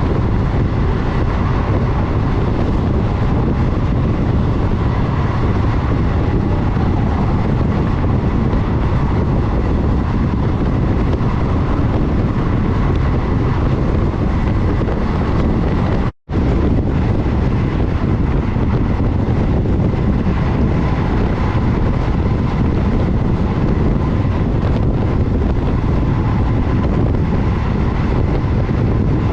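Steady rumble of a passenger train running at speed, heard from on board, with wind buffeting the microphone. The sound cuts out for an instant about halfway through, then carries on unchanged.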